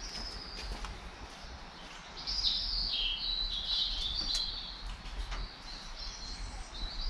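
High-pitched bird chirps and trills that step up and down in pitch, busiest from about two to four and a half seconds in, with shorter calls near the start and near the end.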